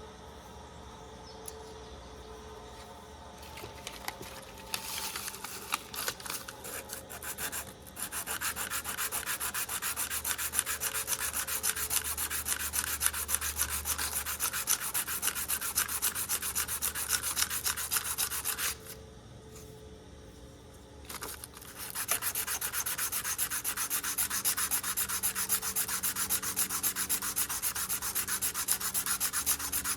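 Hand sanding during an antique leather awl's restoration: quick back-and-forth rubbing strokes that start in earnest about eight seconds in, stop for a couple of seconds around the nineteen-second mark, then resume at the same fast pace.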